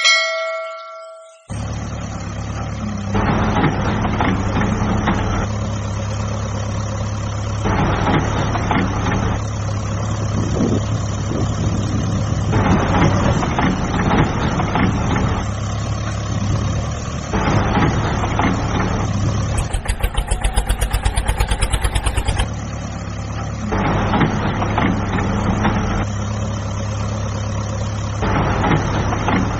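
A short ringing tone at the start, then a steady truck-like engine sound that runs on. About twenty seconds in, it turns to a rapid even pulsing for a couple of seconds before the steady running returns.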